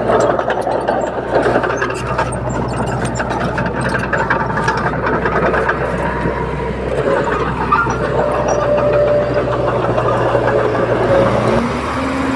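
Diesel engine of heavy earthmoving machinery running steadily, most likely the bulldozer working soil, with a steady low drone and rapid metallic clatter. Near the end the low drone drops away and a short rising whine comes in.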